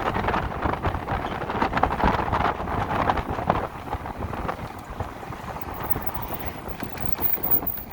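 Wind buffeting the microphone of a rider on an electric motorcycle: a steady rushing noise with a rapid, gusty flutter.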